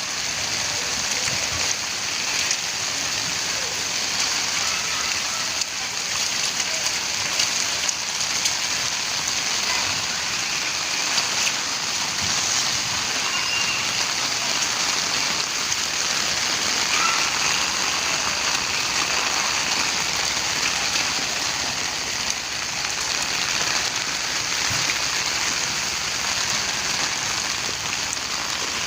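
Steady rain falling, an even wash of drops that keeps up without a break.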